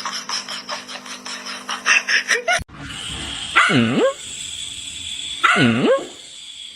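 A dog gives two drawn-out vocalisations in the second half, each about half a second long and each sliding down in pitch and back up. Before them, music and clatter from another clip cut off abruptly.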